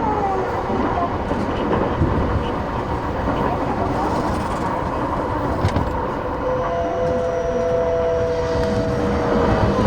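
Interior running sound of an E233-8000 series electric train at speed: steady rail and wheel rumble. About two-thirds of the way in, a steady whine from the traction motors comes in and slowly sinks in pitch.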